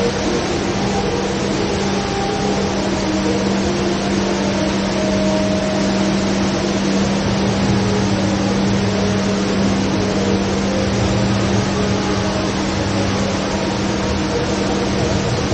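The HSBC Rain Vortex indoor waterfall pouring into its pool: a steady, even roar of falling water, with a steady low hum underneath.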